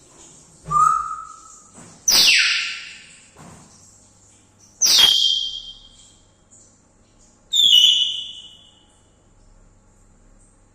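Pet parrot calling four times in short, loud, high-pitched squawks and whistles; the second call slides sharply down in pitch.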